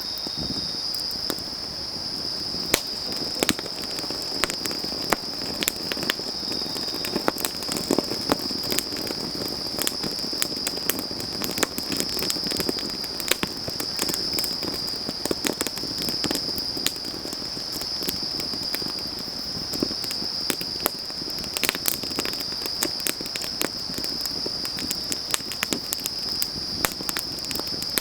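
Wood fire burning, with frequent irregular crackles and pops over a soft low rush of flame. Behind it, autumn grass insects keep up a continuous high-pitched trill.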